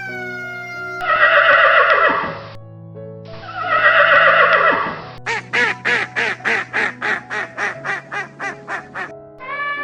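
Animal calls over background music: two long, harsh calls, then a quick run of about fifteen short calls at roughly four a second.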